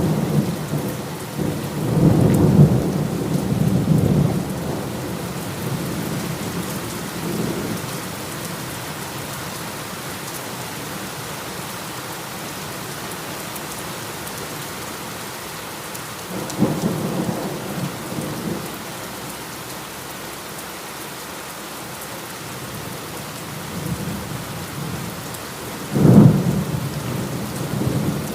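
Steady heavy rainfall with rolling thunder: rumbles swell a couple of seconds in and again past the middle, and a sharper, louder crack of thunder comes near the end.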